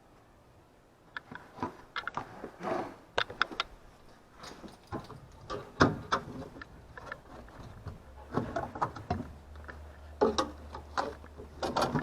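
Irregular clicks, knocks and rattles of objects being handled, with a low steady hum coming in about two-thirds of the way through.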